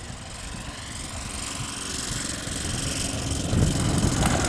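Radio-controlled model airplane engine running, growing steadily louder.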